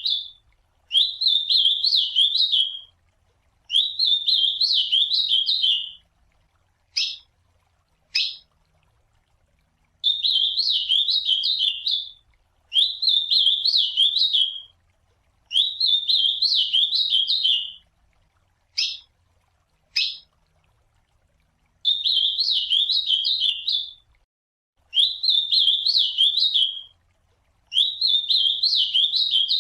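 Ultramarine grosbeak (azulão) singing its warbled song over and over, each phrase about two seconds long with short pauses between. Single short, sharp call notes fall in a few of the gaps.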